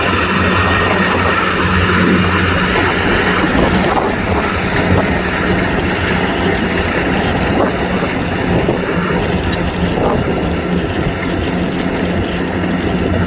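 Kubota DC70 Plus combine harvester working in rice, its engine and machinery running steadily with a constant low hum under a dense mechanical din.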